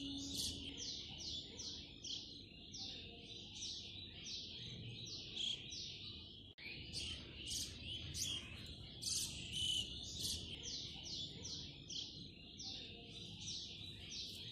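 Steady high-pitched chirping of birds: quick series of short, falling chirps, several a second. It cuts out for an instant about six and a half seconds in, and the same stretch of chirping then seems to start over.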